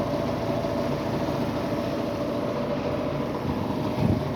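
A motor running steadily, a constant drone with an unchanging hum, with a few low thumps near the end.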